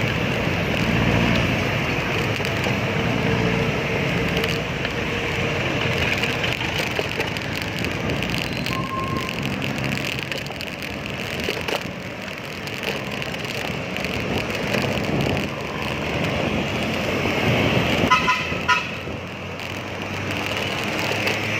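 Steady road traffic noise, with a vehicle horn giving a few short beeps about eighteen seconds in.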